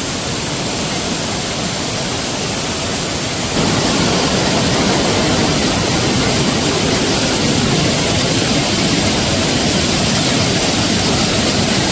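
Rushing water of the twin waterfalls at Anna Ruby Falls, a steady, loud hiss of falling water that grows louder and fuller about three and a half seconds in.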